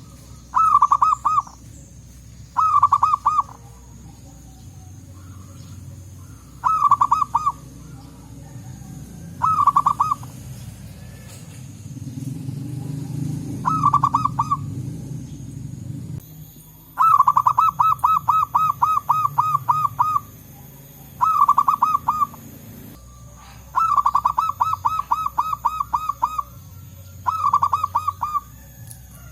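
Zebra dove (perkutut) calling: short bursts of rapid staccato cooing notes, repeated every few seconds. The runs grow longer and more continuous in the second half.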